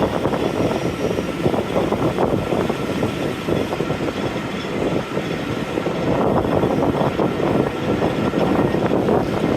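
A Class 45 diesel locomotive with its Sulzer twelve-cylinder engine, working a train on the move, its steady drone mixed with carriage rumble and wheel-on-rail knocks.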